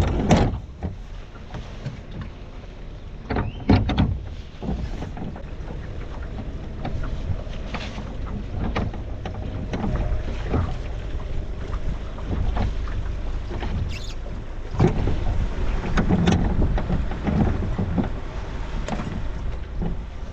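Small boat under way, with a steady low rumble, wind on the microphone and scattered knocks from the boat, strongest about four seconds in and again around fifteen seconds.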